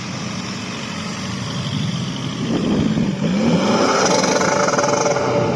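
A car engine being revved: it runs steadily at first, then blips up and down several times from about halfway and is held at higher revs, getting louder, near the end.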